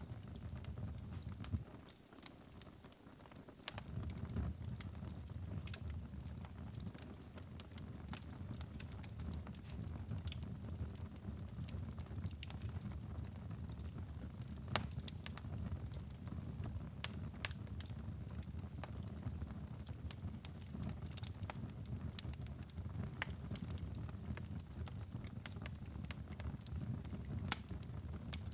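Wood fire burning in a fireplace: a steady low rumble of flames with frequent sharp crackles and pops. The rumble dips briefly about two seconds in.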